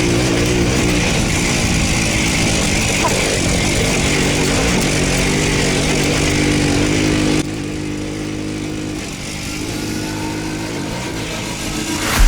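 Voskhod motorcycle's single-cylinder two-stroke engine running under way, its pitch wavering with the throttle, with wind noise. The sound drops abruptly to a quieter level about seven seconds in.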